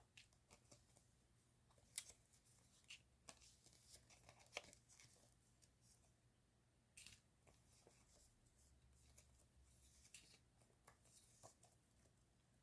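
Faint handling of paper and plastic stationery: scattered rustles, taps and small clicks, with a sharper click about two seconds in.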